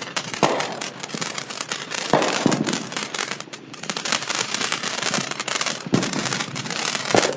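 Commercial-grade fireworks going off: dense, continuous crackling with several louder bangs, about five in all, spread through it.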